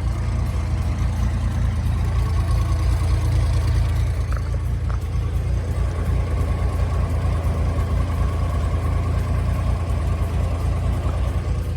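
A car engine idling steadily, a constant low rumble.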